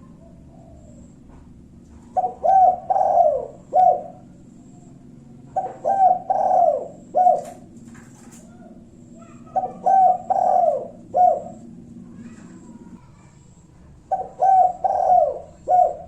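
Spotted dove (tekukur) cooing: four phrases about four seconds apart, each a quick run of four or five coos. It is the 'kuk satu' form of the male's territorial call, used as a lure to make rival doves answer.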